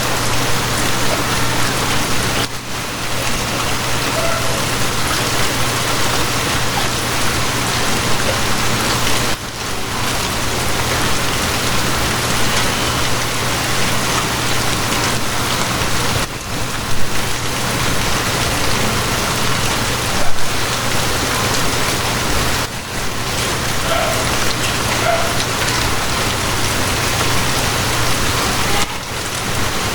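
Steady, heavy rainfall over a constant low hum. The rain sound dips briefly about every six or seven seconds.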